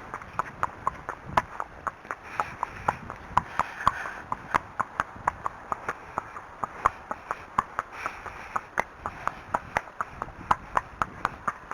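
Arabian horse's hooves clip-clopping on a hard surface at a steady walk, about three to four hoofbeats a second.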